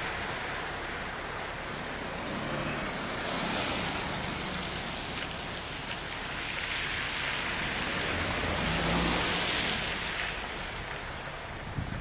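Floodwater rushing: a steady wash of water noise that swells slightly twice.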